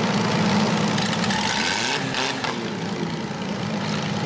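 Engines of several compact demolition derby cars idling together, with one revving up and back down about two seconds in.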